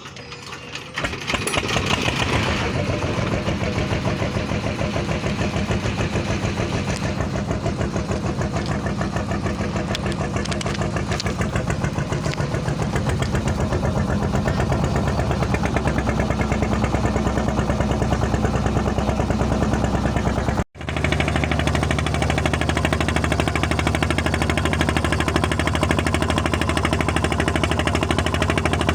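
An engine running loudly and steadily with a fast, even pulse, rising in level about a second in. It cuts out for an instant about two thirds of the way through, then carries on.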